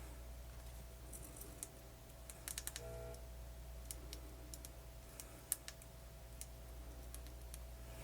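Faint scattered clicks and taps of small tools and parts being handled at an electronics workbench, with a quick run of clicks about two and a half seconds in, over a steady low hum.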